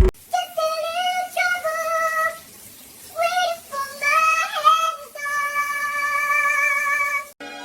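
A high-pitched singing-like voice: a few short wavering phrases, then one long held note that cuts off near the end.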